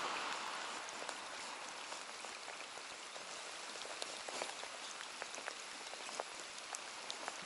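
Steady rain falling on a lake, an even hiss dotted with many sharp drop ticks.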